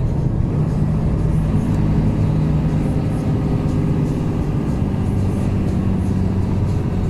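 Mercedes Actros truck's diesel engine running steadily under way, its low drone shifting slightly in pitch.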